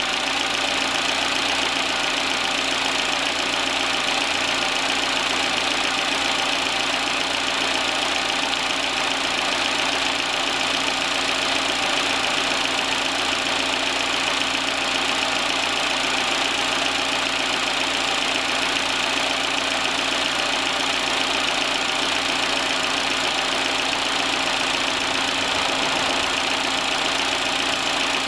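A car engine idling steadily, with an even hiss over it.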